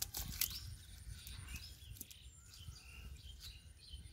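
Small birds chirping in short calls throughout, with a few sharp clicks at the very start and a low rumble underneath.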